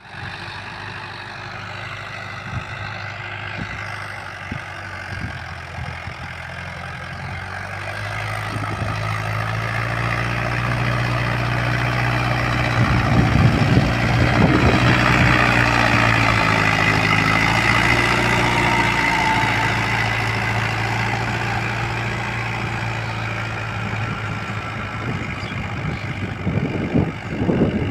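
Walk-behind tractor (power tiller) engine running with a steady note. It grows louder up to about halfway, then fades somewhat.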